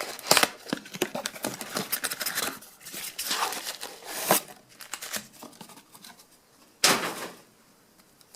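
A retail box of trading cards and its wrapping being handled and torn open: crinkling, tearing and small clicks, with one sharp tearing burst about seven seconds in.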